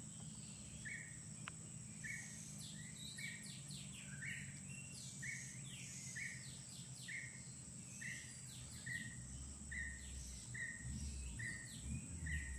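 Birdsong: a short falling note repeated steadily about every 0.8 seconds, over a busier mix of higher, varied chirps, with a steady high whine running underneath.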